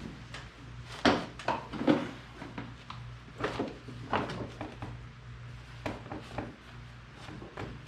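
Irregular knocks and clunks of parts being handled and set down, a dozen or so of varying strength, over a steady low hum.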